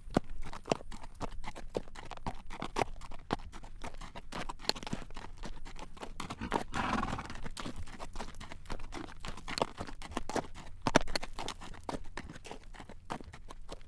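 A carriage horse's hooves clip-clopping on a road at a walk, a steady run of sharp clacks, with a brief louder noise about seven seconds in.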